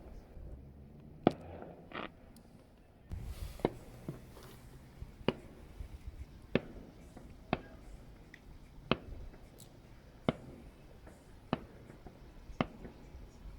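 Fireworks going off at a distance, one sharp bang about every second, over a low background hiss.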